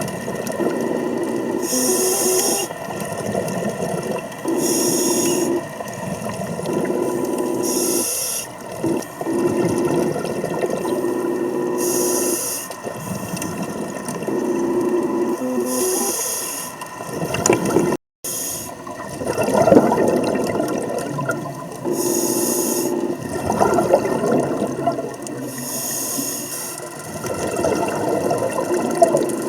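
A scuba diver breathing through a regulator underwater: a short hiss of each breath about every three to four seconds, alternating with bubbling. The sound cuts out briefly a little past halfway through.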